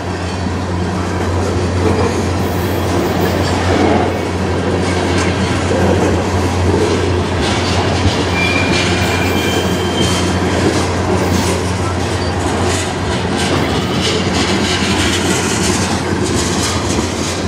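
Freight train of tank cars rolling past close by: a steady loud rumble of steel wheels on rail, with repeated clickety-clack over the rail joints. Two short faint high tones come about eight and ten seconds in.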